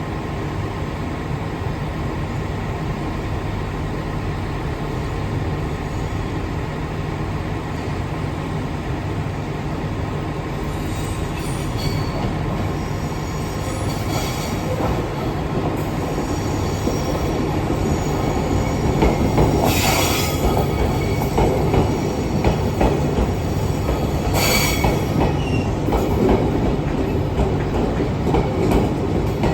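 Train running past, a steady rumble that grows louder through the second half, with a few brief high wheel squeals.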